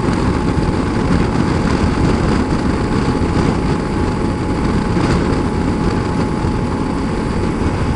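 Motorcycle cruising at highway speed: steady engine drone mixed with wind rushing past.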